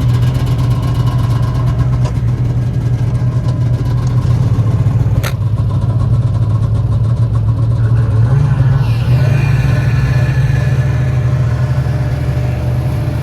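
Snowmobile engine running steadily, with a slight rise in pitch about eight seconds in; a single sharp click about five seconds in.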